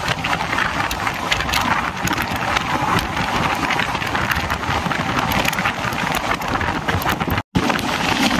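Moving express train: a steady rush of running noise with many small clicks and rattles. The sound drops out for an instant about seven and a half seconds in.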